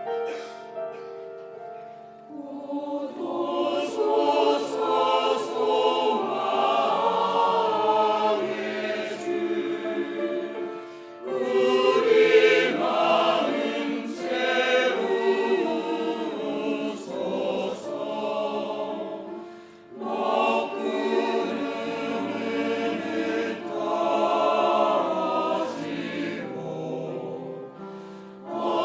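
Church choir singing a Christmas cantata, in long phrases with brief breaks about every nine seconds.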